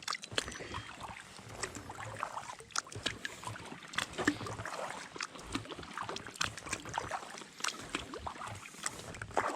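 Kayak paddling: a composite paddle's blades dipping and pulling through calm creek water, with irregular small splashes and drips off the blades.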